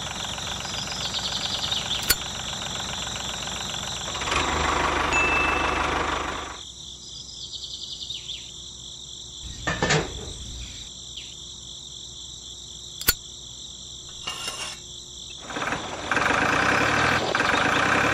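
Engine idling sound, fuller for the first few seconds, then lower and steadier, then fuller again near the end. Three sharp clicks of small metal parts come as a model drive shaft with universal joints is fitted between the miniature tractor and thresher.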